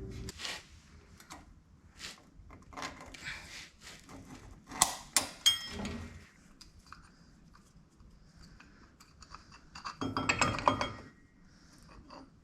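Metal parts and tools being handled on a shop bench: scattered knocks and clinks, two sharp ringing metallic clinks about five seconds in, and a short burst of clanking metal near the end.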